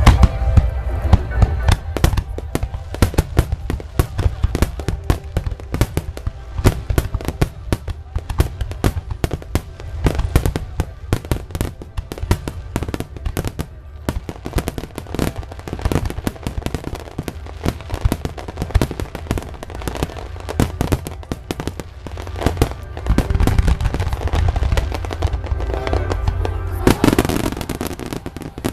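Aerial fireworks display: a rapid barrage of shells bursting, dozens of sharp bangs and crackles in quick succession over low booming, with a loud burst near the end.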